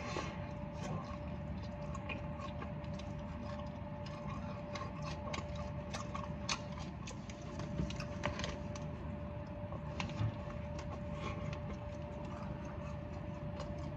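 Close-up chewing of a double Whopper burger: irregular wet mouth clicks and smacks, with a faint steady hum underneath.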